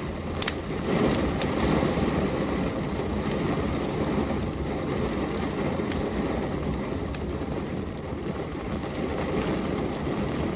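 Steady rain falling, with a wood fire crackling and giving a few sharp pops.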